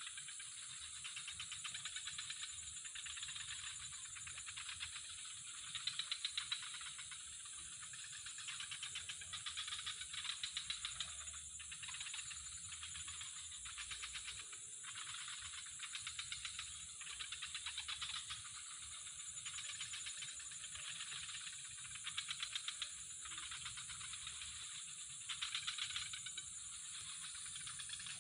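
Chorus of calling insects: a steady high-pitched buzz with rapid rattling trills repeating every second or two.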